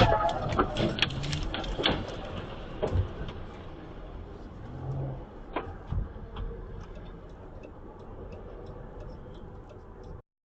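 Vehicle road noise with a cluster of sharp knocks and bangs in the first two seconds, then a steady rumble that fades, with scattered light ticks, cutting off suddenly near the end.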